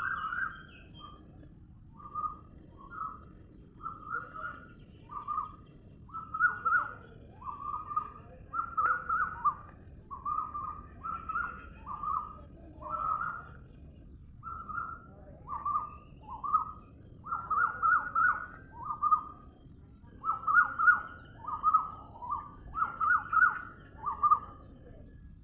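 A bird calling in a long series of short, slurred notes, about two a second, with a couple of brief pauses.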